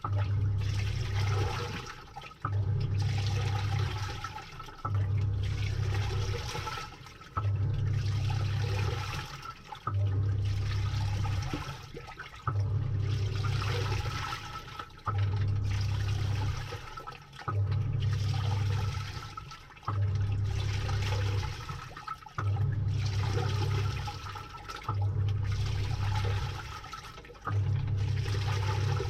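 Samsung 6.5 kg top-load washing machine agitating a load, heard from inside the tub: the motor drives the pulsator in regular strokes of about two seconds, roughly one every two and a half seconds, each with a low hum and churning water, and brief pauses between them.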